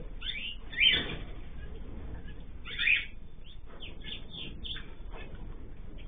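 Aviary cage birds calling: two loud sweeping calls, one about a second in and one near the middle, followed by a run of shorter chirps.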